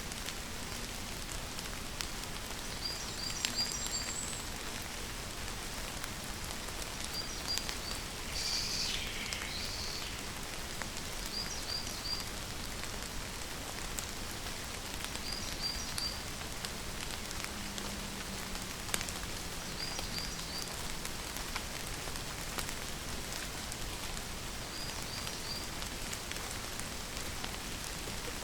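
Steady rain falling, with a bird's short high three-note chirp repeating about every four seconds and one longer call sliding down in pitch about nine seconds in.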